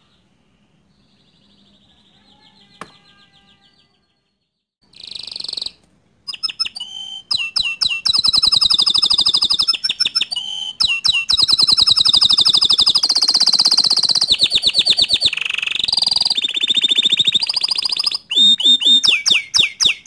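Domestic canary singing a long, fast song of rapid trills and rolling phrases, faint at first and then loud and almost unbroken from about five seconds in, with a brief pause near the end.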